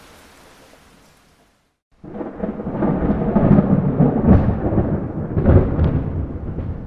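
Steady rain fades out to a moment of silence, then thunder starts about two seconds in: a loud, deep rolling rumble with several cracks, dying away near the end.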